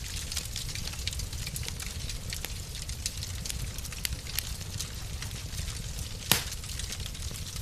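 Fireplace fire crackling: frequent small crackles over a low steady rumble, with one loud pop about six seconds in.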